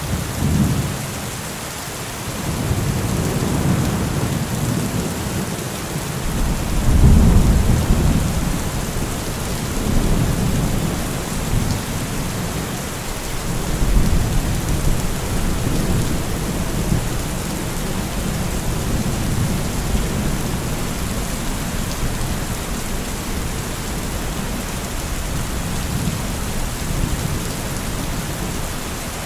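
Heavy rain falling steadily with thunder rumbling through it in several rolls, the loudest about seven seconds in and smaller ones around ten and fourteen seconds, settling into a low continuous rumble.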